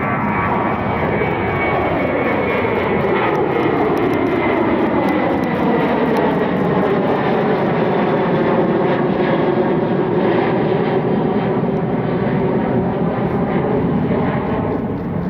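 Jet airliner departing, its engines loud and steady, with a sweeping tone that falls in pitch over the first few seconds and then levels out as the plane passes.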